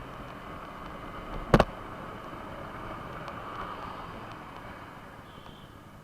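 Yamaha R15 V4 motorcycle being ridden: steady engine and wind noise as heard from the rider. A single sharp knock about one and a half seconds in.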